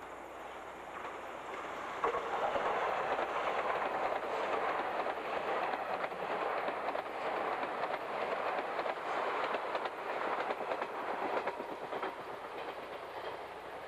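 381 series electric multiple-unit express train passing close by at speed, its wheels clattering steadily over the rail joints. The sound swells suddenly about two seconds in as the train reaches the spot and eases off near the end as the cars go by.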